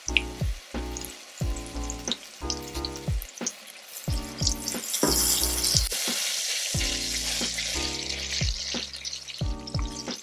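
Chilies, shallots and garlic sizzling in hot oil in a wok as they fry until wilted, stirred now and then with a spatula. The sizzle gets louder about halfway through. Background music with a steady plucked bass line plays underneath.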